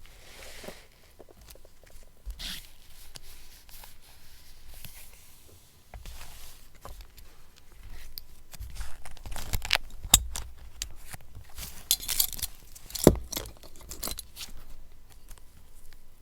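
Paper being torn and handled for a collage journal: irregular rustling and crackling with sharp snaps, getting busier and louder in the second half.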